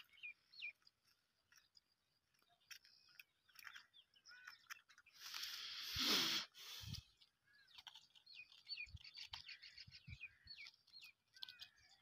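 Birds chirping: short, high chirps scattered through the quiet, with a louder rustle of handling about halfway through.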